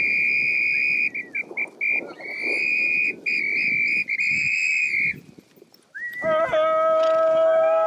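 A dog-training whistle blown in long steady blasts broken by a run of quick short toots. About six seconds in, a long, high call takes over and is held, sliding down in pitch at the end.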